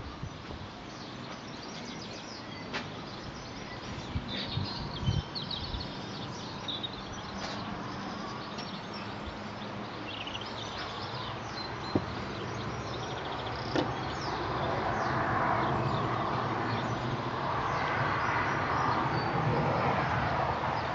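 Outdoor evening ambience with birds chirping and two sharp clicks. In the last third a broad rushing noise swells and stays up.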